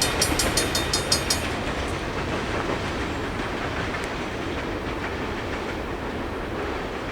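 Train rolling through a road crossing: fast, even clicking of its wheels over the rail joints stops about a second and a half in, leaving a steady rumble that slowly fades as the train moves away.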